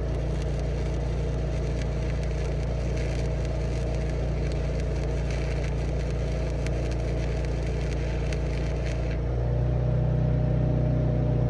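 An engine running steadily under a crackling hiss. About nine seconds in the crackle stops and the engine's note shifts and gets a little louder.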